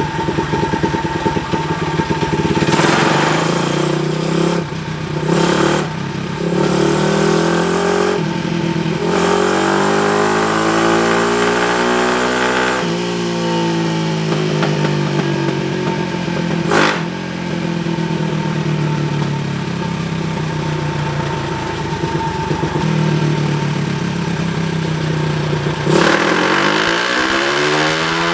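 Pit bike's 225cc stroked Daytona 190 single-cylinder four-stroke engine running and being revved, its pitch climbing and falling back several times, with one sharp pop partway through.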